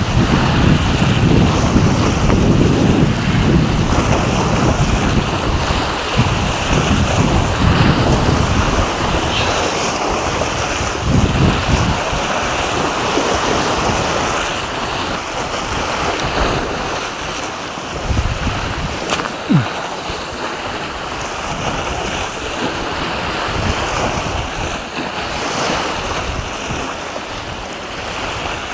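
Wind buffeting the microphone over the sound of sea surf, gusting hardest in the first half and easing later.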